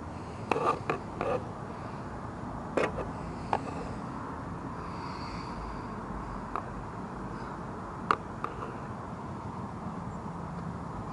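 A few sharp clicks and knocks over steady background noise: a quick cluster in the first second and a half, then single knocks now and then.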